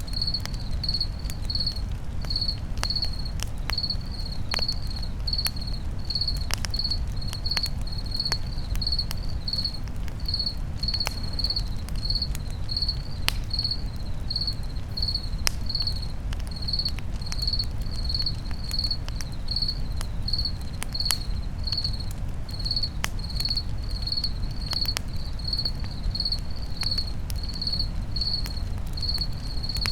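Crickets chirping steadily, about two chirps a second, over a crackling campfire with sharp pops scattered throughout and a low steady rumble underneath.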